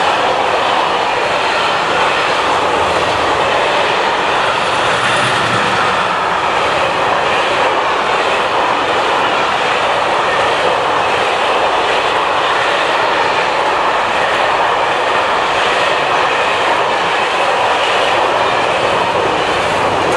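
A train running past on the line: a loud, steady rushing noise of wheels on rails that keeps on without let-up.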